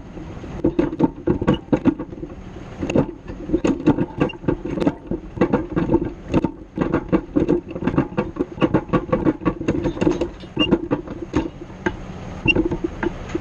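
Grapple loader at work: rapid, irregular metal rattling and knocking from the grapple, heard close up over the loader's steady engine.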